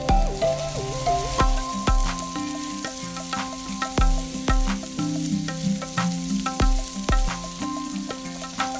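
Diced onion and garlic sizzling in hot oil in a stainless steel pot while a wooden spoon stirs them. Background music with a steady beat plays over it.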